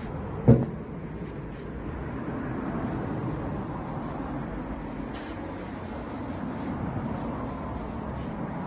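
A green oak log is set down on a scale with one heavy thump about half a second in, followed by a steady low rumble.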